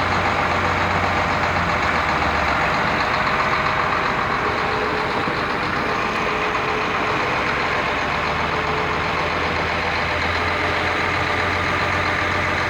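A baler and the engine driving it running steadily, a dense continuous mechanical noise with steady engine tones.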